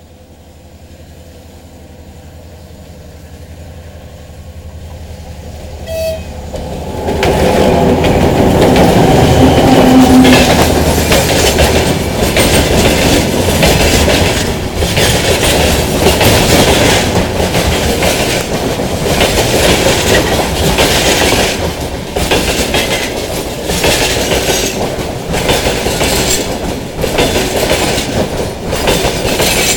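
A timber freight train approaches with a rumble that grows louder for about seven seconds. The locomotive then passes, with a short horn blast about ten seconds in. The loaded wagons follow, rolling past in a steady clickety-clack over the rail joints.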